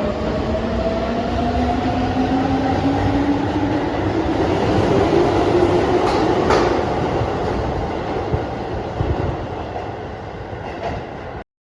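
Keihan electric train running and accelerating, its traction motor whine rising steadily in pitch over the rumble of the wheels. The sound cuts off abruptly near the end.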